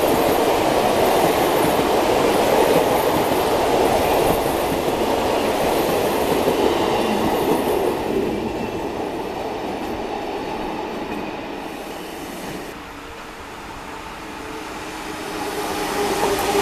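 Double-deck electric commuter train rolling past on the rails with a steady wheel-and-track noise. The noise fades away over several seconds as the train leaves. Near the end a second train approaching brings the noise up again.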